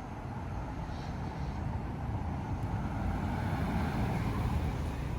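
Road traffic passing, a steady vehicle rumble that builds a little toward a peak near the end.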